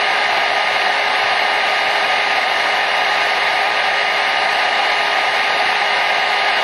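Hair dryer running steadily: an even, rushing hiss of blown air with a faint steady motor whine.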